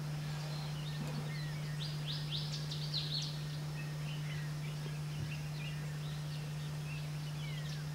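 Scattered small-bird chirps and short whistled calls, with a quick run of sharp upward-sweeping notes about two to three seconds in, over a steady low hum.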